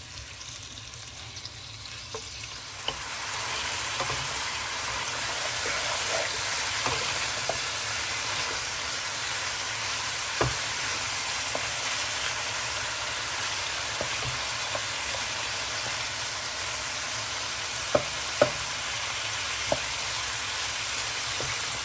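Bone-in chicken pieces sizzling in hot oil with ginger-garlic paste in a deep pan, a steady frying hiss that grows louder about three seconds in as the chicken is browned. A few sharp knocks of the stirring spoon against the pan come through it.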